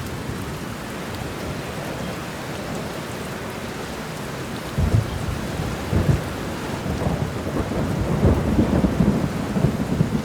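Steady rain with rolling thunder: a rumble sets in about halfway through and swells louder toward the end.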